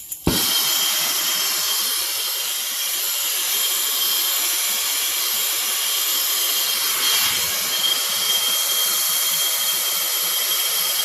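Soldering torch lit with a couple of clicks, then burning with a steady loud hiss and a faint high whistle while it heats copper pipe for soldering.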